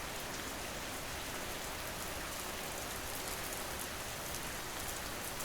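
Steady ambient rain: an even hiss of rainfall with faint patter of drops.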